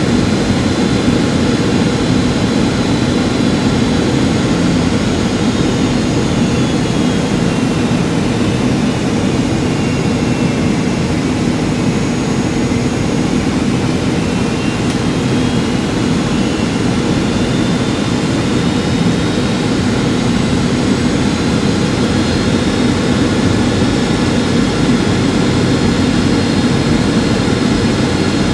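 Steady in-flight cabin noise of a Boeing 757-200: the jet engines and airflow make a constant low rumble. A faint high whine sinks in pitch about a third of the way in, then rises again.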